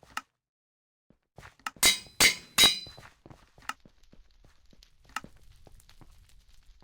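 Three quick, loud clinking knocks of hard objects with a short ringing tone, about two seconds in, between fainter scattered clicks.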